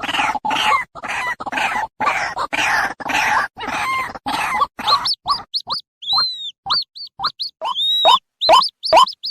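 White-breasted waterhen chick calling: quick harsh, rasping calls repeated without pause, changing about five seconds in to clear, sharp, arched peeping notes, about two or three a second.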